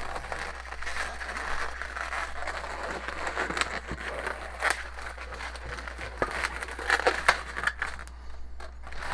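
Two inflated latex modelling balloons rubbing and crinkling as they are squeezed soft and twisted into bubbles, with irregular sharp clicks and snaps.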